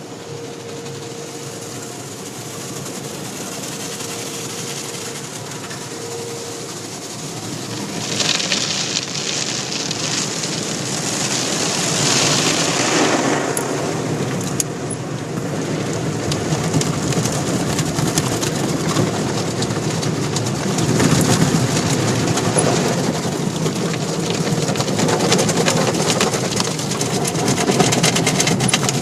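Automatic car wash running: a steady mechanical rumble and water spray, with louder surges of spray about eight and twelve seconds in.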